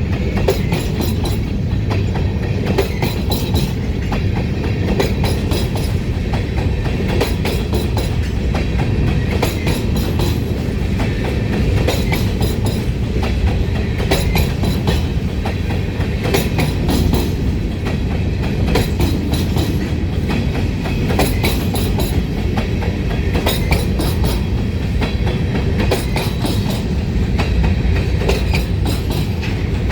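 Freight train cars rolling past, with a steady low rumble and repeated clickety-clack of wheels over rail joints, the clicks coming in small groups every second or two.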